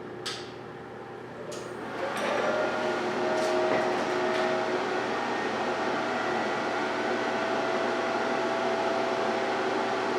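A couple of clicks, then about two seconds in a cheap MIG welder's cooling fan starts up. It runs steadily with a humming whir, the sign that the welder is powered on.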